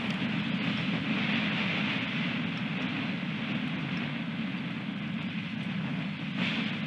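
Strong wind buffeting an outdoor nest camera's microphone: a steady rushing rumble with a gust swelling near the end.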